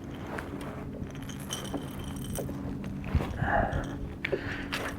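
Light clinks and rattles of gear being handled, over a steady low hum.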